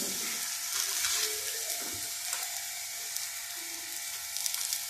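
Pumpkin-stuffed paratha frying in ghee on a hot tawa: a steady sizzle, with light crackling picking up near the end.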